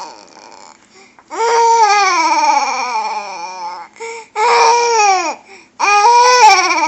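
Baby's funny vocal noise made over and over: high, wavering cries that slide down in pitch, three long ones with a short one between, starting about a second in.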